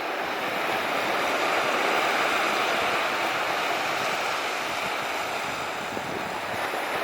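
Surf breaking and washing onto a beach: a steady rush of sea noise that swells about two seconds in and slowly eases off.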